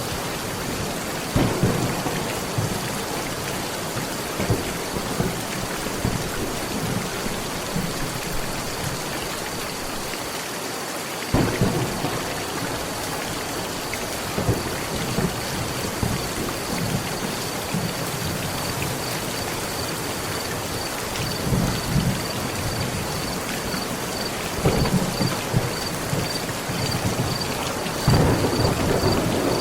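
Heavy steady rain drumming on a metal roof, with thunder rumbling in several low rolls, the strongest near the end.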